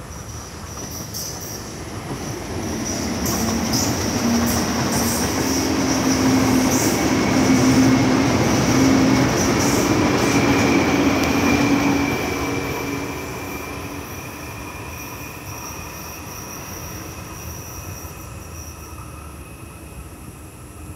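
Taipei Metro C301-type train with retrofitted propulsion passing by: a rail rumble that swells over a few seconds, is loudest for about six seconds and then fades away, with a motor whine climbing slightly in pitch and higher wheel-and-rail whistling and ticks.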